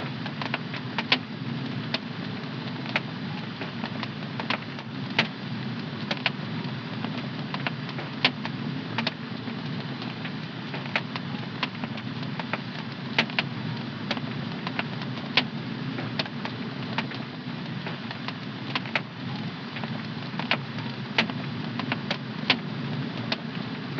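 Wood fire burning in a home fireplace, crackling: irregular sharp pops and snaps, several a second at times, over a steady low rush of the flames.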